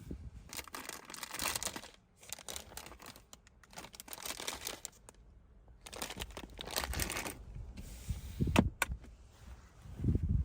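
Rustling and crinkling, as of things being handled, in bursts with short pauses, and a couple of sharp clicks near the end.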